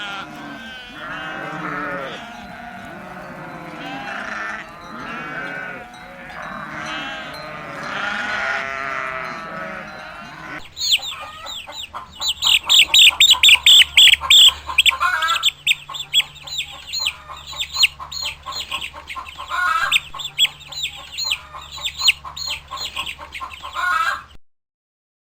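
A flock of livestock bleating, many voices overlapping, for about ten seconds. Then it changes abruptly to a dense chorus of high, rapid chirping and peeping from many small birds, which thins out and cuts off suddenly near the end.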